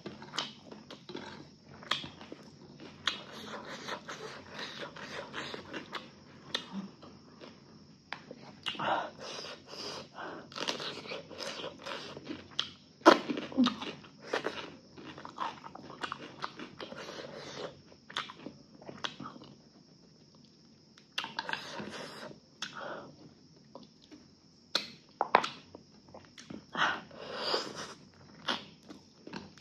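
Close-miked eating: irregular chewing, lip-smacking and crunching of food in the mouth, with a quieter lull of a couple of seconds about two-thirds of the way through.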